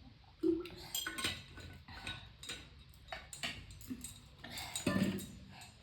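Cutlery clinking and tapping against dishes, a run of irregular clinks with louder knocks about half a second in and near the end.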